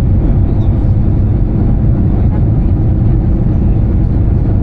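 Steady cabin noise aboard an Airbus A320-214: an even, low rumble of engines and airflow that does not change.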